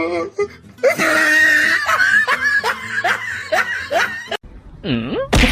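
A person laughing hard in quick repeated bursts, about three or four a second, which cuts off abruptly after a few seconds. Near the end come a short sliding vocal sound and a loud sudden noise.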